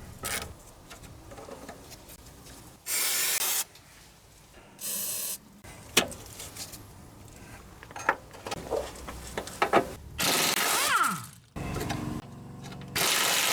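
Several short bursts of hiss from an aerosol spray can, the longest a little past halfway, between the clicks and knocks of hand tools on the car's front suspension.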